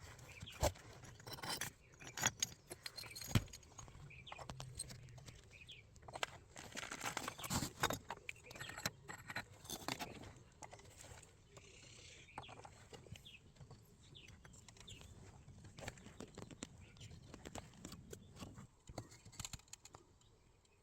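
Scattered light clinks, knocks and short scrapes of pottery and kiln shelving being handled and set in place while a wood-fired kiln chamber is stacked for bisque firing, busiest in the first half.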